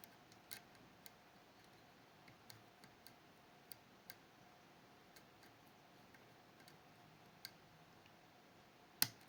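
Faint, scattered clicks of a lock pick working the sidebar levers of a Fichet 484 lock under tension, about half a dozen spread out, with one sharper click near the end.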